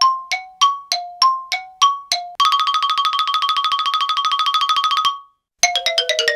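Sound-effect bell and chime samples. First a two-note ding alternates about three times a second, then about two and a half seconds in a bell rings fast and evenly for a few seconds. After a brief gap a run of chime notes steps downward in pitch.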